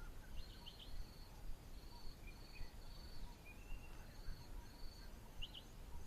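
Faint natural bush ambience: an insect buzzes in short, evenly repeated high-pitched bursts, while a small bird gives a few quick high chirps, over a low background rumble.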